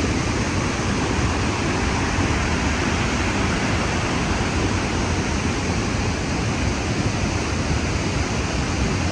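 Ruacana Falls on the Kunene River in full flood: a steady, loud rush of falling water, heavy in the low end.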